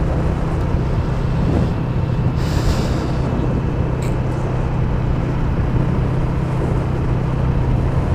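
Steady engine hum and road noise of a vehicle on the move, with a brief hiss about two and a half seconds in and a short tick about a second later.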